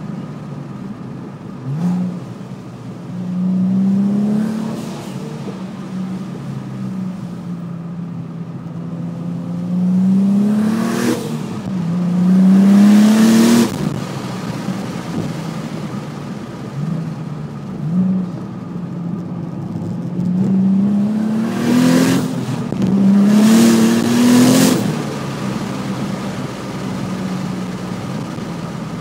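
Twin-turbocharged Nissan 370Z 3.7-litre V6 idling and being revved several times, the pitch climbing on each rev and dropping back to idle in between. The bigger revs, about 10 and 22 seconds in, come in pairs, each ending in a short sharp rush of noise as the revs fall.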